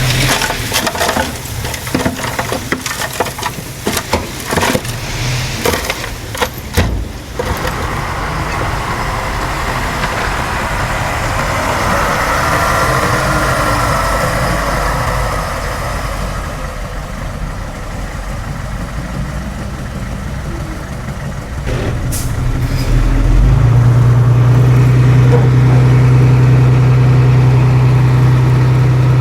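Heavy earthmoving machine's diesel engine at work. Dense crackling and snapping fills roughly the first seven seconds. Then there is a noisy hiss, and from about three-quarters of the way through the engine runs louder and steady.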